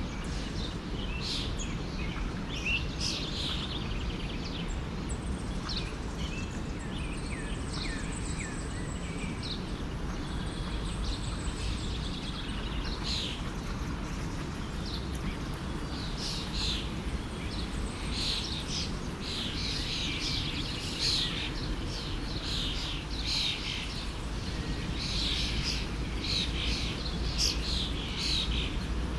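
Many small songbirds chirping and calling over the steady rush of a forest stream; the chirping grows busier in the second half.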